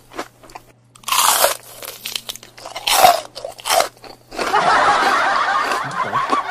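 Someone biting and chewing adobo chicken feet with loud crunches about a second in and again around three seconds, as the skin and cartilage break. A steady, noisy stretch of chewing follows near the end.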